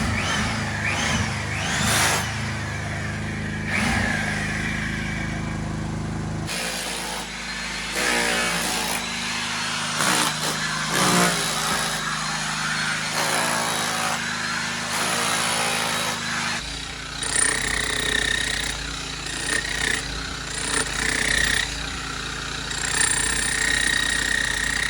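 Electric hammer drill boring a hole through a thick stone wall for a drain outlet, running steadily in three stretches with abrupt changes about a third and two thirds of the way through.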